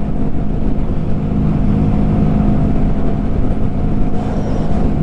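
Honda Grom's small single-cylinder engine running at a steady speed while the motorcycle cruises, its pitch holding even with no revving.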